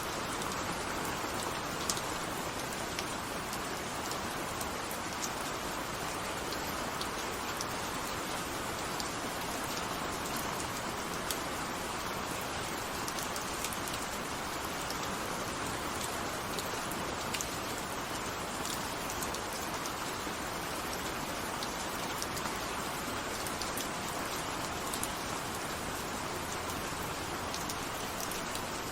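Steady rain falling, a continuous even hiss with scattered ticks of single drops striking a surface.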